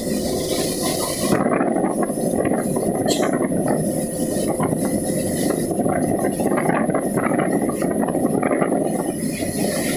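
Truck travelling in heavy rain and strong wind: a steady, dense rushing noise with scattered small clicks and rattles.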